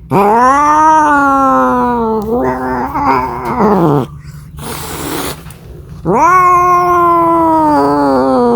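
Cat yowling: two long drawn-out calls, each rising and then slowly falling in pitch. Between them comes a short rush of noise.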